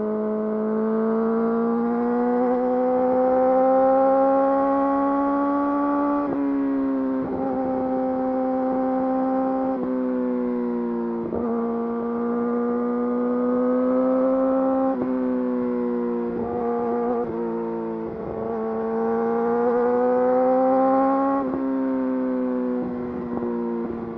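Yamaha YZF-R6's inline-four engine through an Akrapovič full exhaust system, pulling under way. The note climbs slowly, then drops sharply about six times as the rider changes gear or rolls off the throttle.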